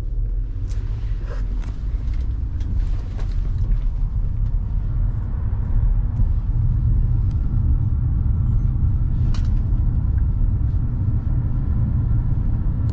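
Taxi in motion heard from inside the cabin: a steady low road and engine rumble, with a few light clicks and rattles, one sharper click about nine seconds in.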